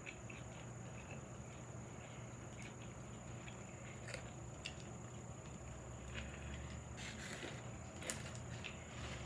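A person chewing a sandwich with the mouth close to the microphone: faint, scattered wet clicks and smacks over a low steady hum.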